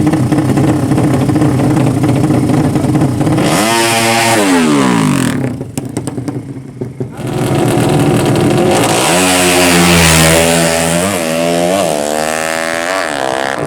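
Drag-racing motorcycle engines. A steady running note gives way to a sharp fall in pitch about four seconds in. After a brief lull with a few clicks, an engine revs hard from about nine seconds, its pitch climbing and dropping back several times.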